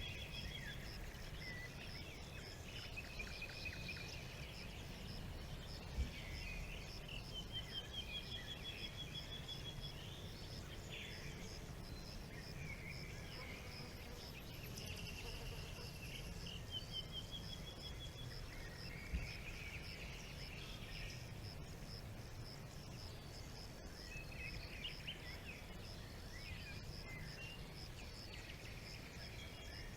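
Forest ambience: several birds singing in repeated trilled and warbled phrases over a steady, rapidly pulsing insect call, with a low rumble underneath. Two brief knocks stand out, one early and one past the middle.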